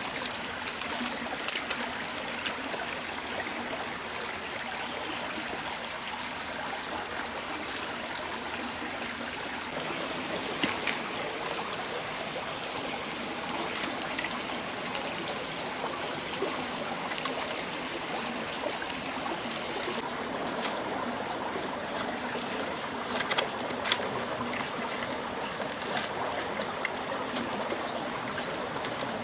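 Stream water flowing steadily, with scattered small clicks and knocks now and then.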